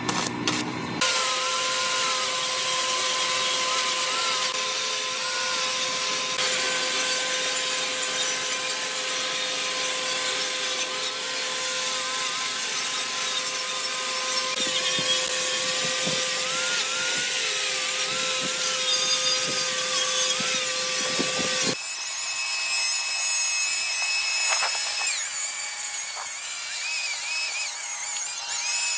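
Electric power tools running steadily while grinding or sanding: one motor with a steady hum and a hiss of abrasion, then, after an abrupt change near the end, a higher-pitched tool.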